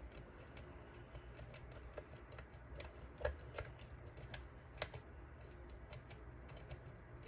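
Lock pick and tension wrench working the pins of a Deguard dimple lock cylinder: faint, irregular small clicks and scratches, with a couple of sharper clicks about three and five seconds in.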